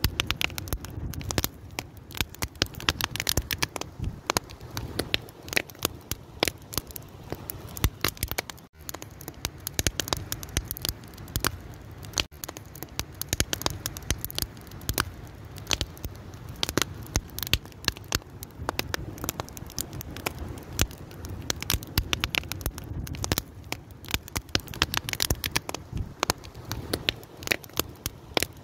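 Wood fire crackling steadily, with many sharp irregular pops and snaps over a low rumble of burning.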